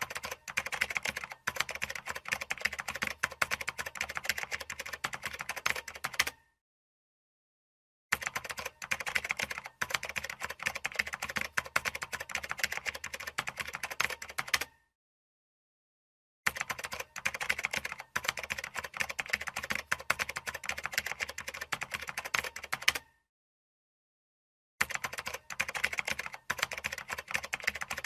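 Computer keyboard typing: fast, dense key clicks in runs of about six to seven seconds, each run cut off by a gap of total silence lasting a second or two, three times over.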